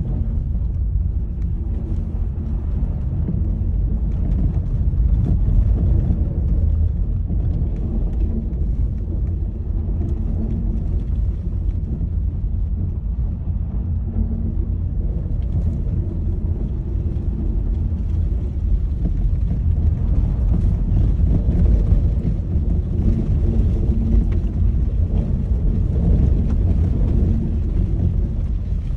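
Car driving with a steady low road rumble and irregular knocking from a worn universal joint (a small cardan joint) that needs replacing.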